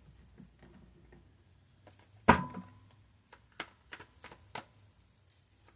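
Tarot cards being handled on a table: a sharp knock about two seconds in, then a run of light clicks and taps as the deck is worked through.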